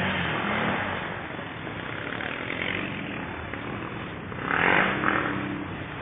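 ATV engine running while riding through a stream, with a louder noisy surge about four and a half seconds in.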